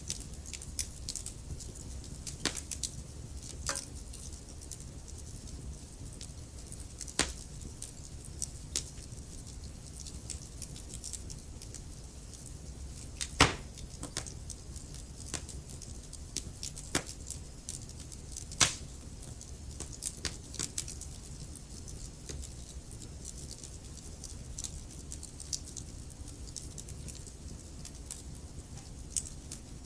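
Wood fire burning in a fireplace: a steady low rumble of flame with scattered crackles and sharp pops of the logs, the loudest pops about halfway through and again a few seconds later.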